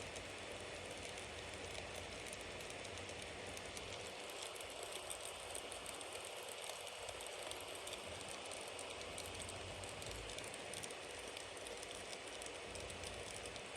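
Bonfire burning, a steady hiss of flames with many small crackles and pops from the wood.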